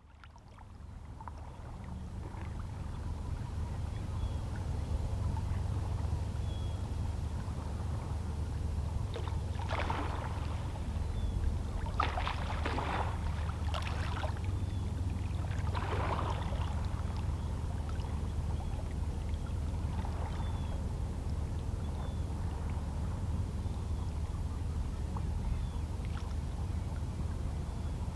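Calm sea with small waves lapping against shoreline rocks: a steady low wash with a few brief, louder splashes around the middle. It fades in over the first few seconds.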